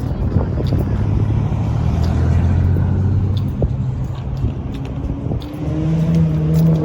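Car engine running at idle with a low steady drone, its pitch rising for the last second or so.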